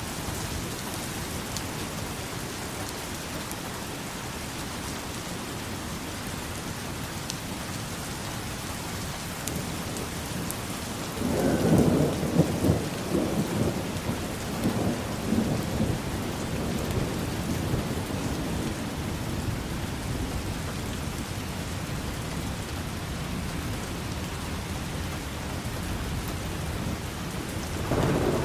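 Steady rain falling, with a roll of thunder that breaks in suddenly about eleven seconds in and rumbles for several seconds before fading back into the rain; another rumble starts near the end.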